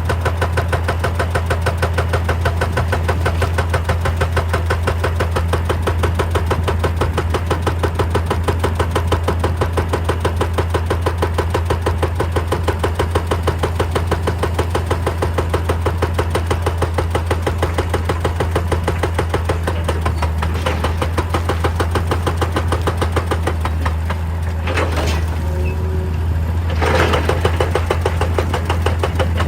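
Hitachi EX200 hydraulic excavator working: its diesel engine runs steadily under a fast, even train of knocks. The knocks ease off briefly about 24 seconds in, with two short louder clatters, then resume.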